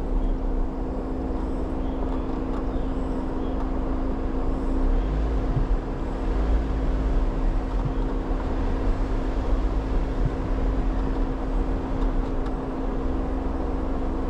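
Jeep Wrangler driving, with a steady engine hum and low road rumble.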